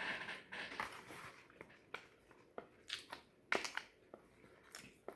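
Close-miked chewing: a crackly, crunchy stretch in about the first second, then scattered sharp mouth clicks and smacks.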